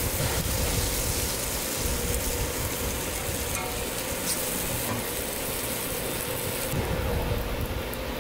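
Ham slices sizzling in oil on a flat-top griddle, a steady crackling hiss that thins near the end.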